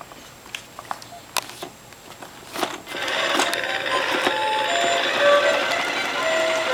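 Electronic sound effect from a toy airplane: a steady buzzing engine noise with short beeping notes at changing pitches, starting about three seconds in after a few clicks.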